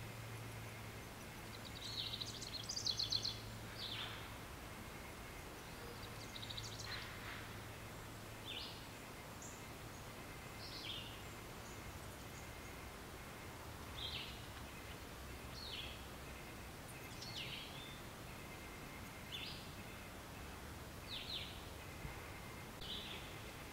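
Nature ambience of birds calling in short high chirps. There is a brief flurry of trilled notes a couple of seconds in, then single chirps every second or two over a steady background hiss and low hum.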